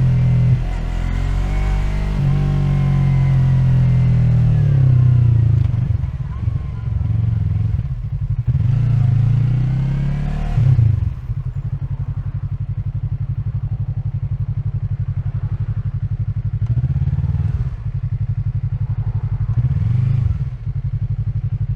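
2020 Yamaha MT-03's parallel-twin engine heard from the saddle: it slows with the revs falling over the first few seconds, picks up again briefly, then drops to a steady idle about halfway through, with two short throttle blips near the end.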